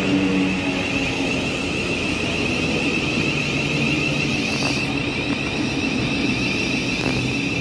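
Steady running noise of a train in motion, a constant low hum with a high, even whine above it.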